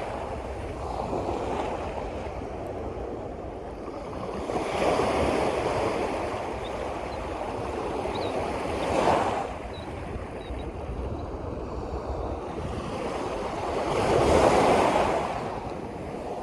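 Waves washing in against a steady wash of water and wind, swelling three times: about five seconds in, around nine seconds, and most strongly near the end.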